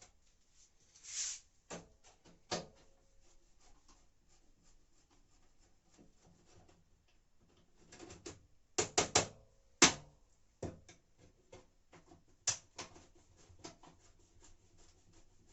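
Scattered knocks and clicks of a screwdriver and plastic parts being handled while a Whirlpool washing machine's detergent drawer housing is taken apart: a short rustle about a second in, a few single knocks, and a quick cluster of sharp clicks a little past the middle, the loudest.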